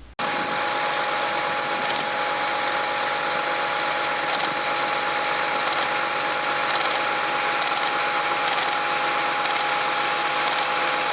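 Propeller engines of Diamond DA-50 and DA62 light aircraft running as they taxi: a steady drone with two held tones. Camera shutter clicks land now and then over it.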